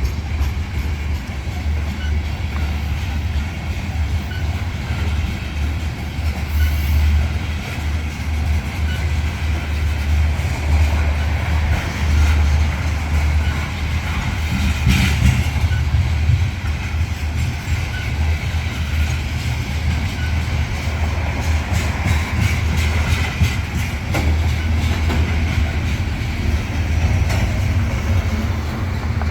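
Freight train rolling past close by: a steady heavy low rumble with many sharp wheel clicks over the rails.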